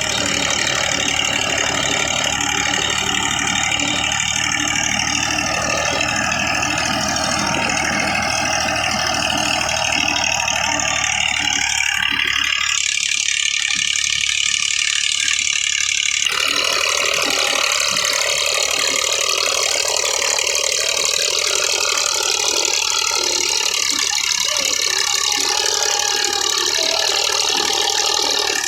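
MTZ tractor's diesel engine running steadily; about halfway through the deep low end drops away for a few seconds and the engine sound carries on with a thinner, higher tone.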